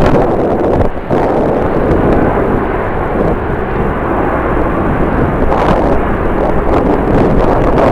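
Jet airliner's engines giving a loud, steady roar, with strong wind buffeting the microphone.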